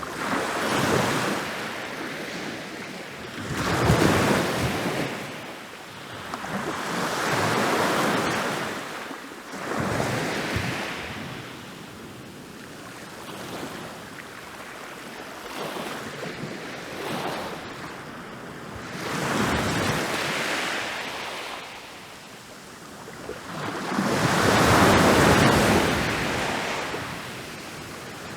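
Ocean waves breaking and rolling onto a beach, each wave swelling to a rush of surf and washing back, about every few seconds, with a big break near the end.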